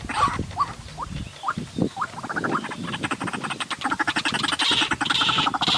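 White-breasted waterhen calls: a few short rising notes, then from about two seconds in a fast, rasping run of croaking pulses that grows louder.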